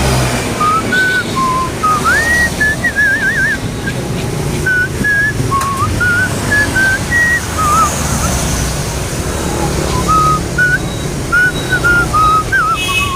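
Whistling a melody: short pure notes that step up and down with a rising glide about two seconds in and several warbling trills.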